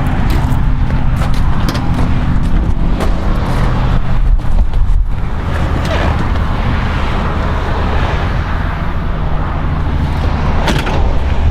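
Ford 7.3 liter Power Stroke V8 turbodiesel idling steadily, with scattered short knocks over a noisy hiss.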